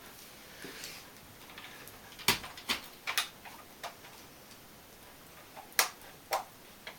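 Sharp plastic clicks, about half a dozen at uneven spacing, from a toy remote-control helicopter's controller being handled: its battery door fitted and its switch clicked. The controller does not come on, which is put down to dead batteries.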